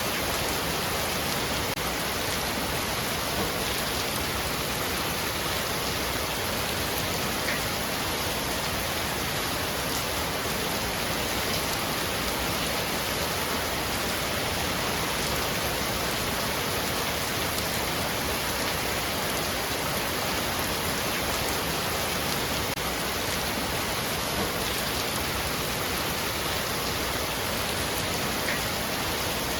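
Heavy rain falling steadily on a roof, a dense even hiss of drops with no thunder.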